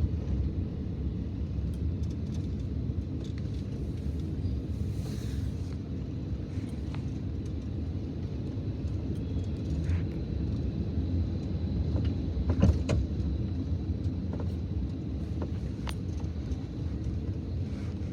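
Steady low rumble of a car heard from inside the cabin while driving, with a few light clicks and knocks, the strongest about two-thirds of the way through.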